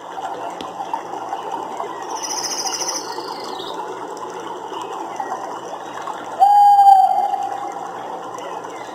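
Recorded nature soundscape: a dense chorus of small chirping calls, with a high pulsed trill about two seconds in and a loud, steady, pitched call starting suddenly about six and a half seconds in and fading over the next second.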